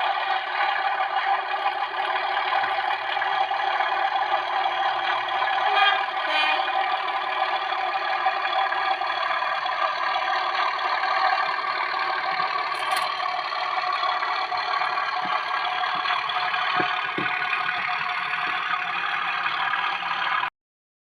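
Sound-decoder recording of a Class 37 diesel locomotive's English Electric engine idling steadily, played through the small speaker of an OO-gauge model; it cuts off suddenly near the end.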